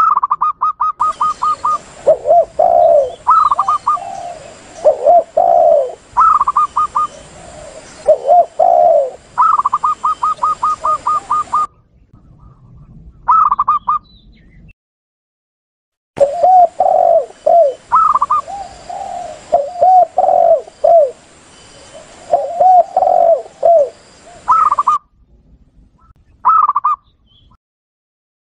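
Spotted dove and zebra dove calling. Fast runs of short, higher coos from the zebra dove alternate with the spotted dove's lower, rolling coos in groups of two or three. There are a few silent breaks of one to three seconds between phrases.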